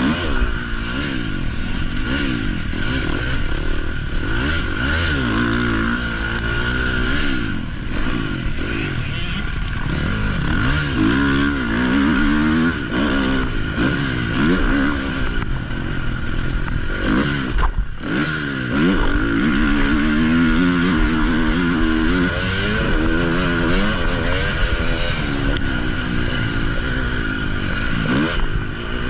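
Motocross dirt bike engine revving up and falling back again and again as the rider works the throttle around the track, heard from a helmet-mounted camera. The throttle is briefly chopped and the engine sound cuts out for a moment a little past the middle.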